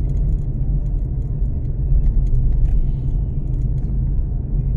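Steady low rumble of a vehicle driving, heard from inside the cabin, with faint scattered small clicks and rattles.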